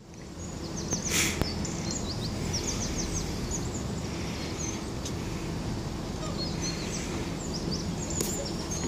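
Small birds chirping in quick, high, repeated notes over a steady low background rumble. A short burst of hiss comes about a second in, and another near the end.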